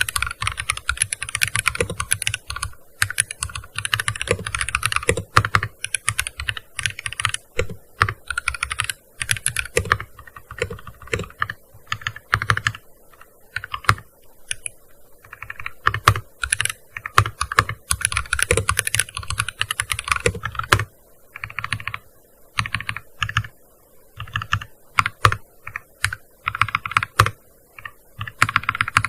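Typing on a gaming keyboard: fast runs of clicky keystrokes in bursts, with short pauses between them, as text is written.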